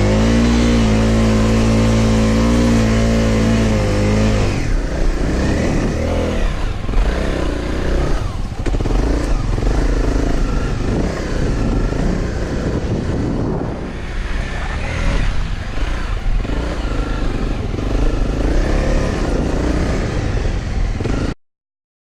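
Motorcycle engine running at a steady pitch for about four seconds, then a busier, wavering engine note with a lot of noise as the bike is ridden; the sound cuts off suddenly near the end.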